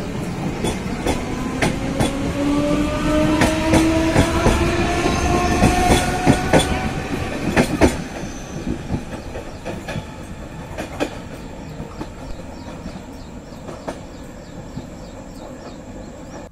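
Mumbai suburban electric local train pulling away from the platform. A whine climbs steadily in pitch for several seconds as it gathers speed, and the wheels click regularly over the rail joints. The sound fades after about halfway as the train moves off.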